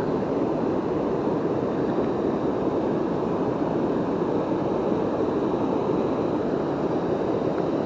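Steady, even rush of river water flowing fast over shallows.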